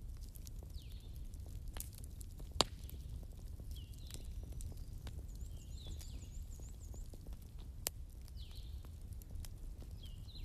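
Campfire of burning wood crackling, with many small ticks and two sharp pops, over a low steady rumble. Faint high chirps recur every couple of seconds.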